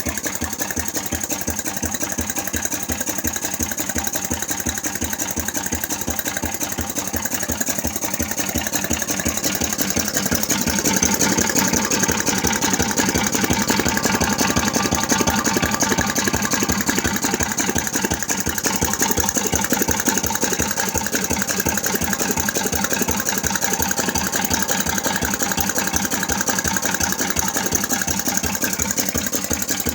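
Buzacott 4C vertical engine running steadily, its firing a fast, even beat. It grows louder about ten seconds in and stays that way.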